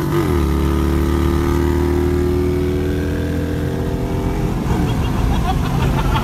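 V8 car engine cruising at steady revs, heard from inside the cabin, with a brief dip in pitch near the start; about four and a half seconds in the drone eases off and drops in pitch.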